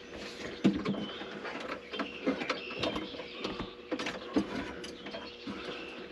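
Irregular clicks, knocks and short scraping squeaks of a heavy piece being pushed and worked by hand to slide along a linoleum floor, its back edge catching as it goes.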